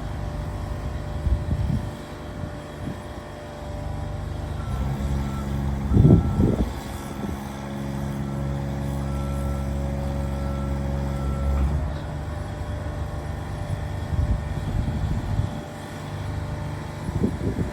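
Bucket truck's small pony motor running steadily to power the boom hydraulics. About five seconds in the sound steps up, with a repeating beep, for about seven seconds while the boom is worked, then drops back. Wind buffets the microphone in gusts.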